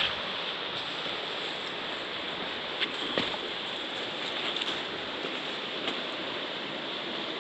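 River water running steadily over rocks, with a few short knocks about three, four and a half and six seconds in.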